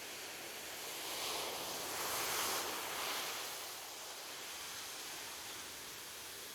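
Gentle ocean surf washing onto a beach: a steady hiss that swells about a second in, peaks near two and a half seconds as a wave breaks and runs up, then eases back.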